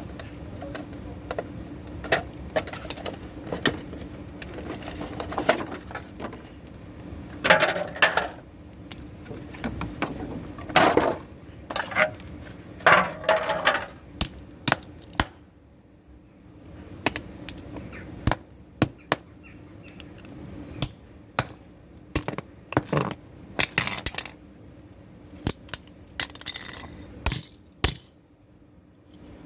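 Hammer striking Bluetooth earphones again and again at an uneven pace: sharp knocks with plastic cracking and small broken pieces clinking. Heavier bursts of blows come about eight, eleven and thirteen seconds in, and some later hits leave a brief high ring.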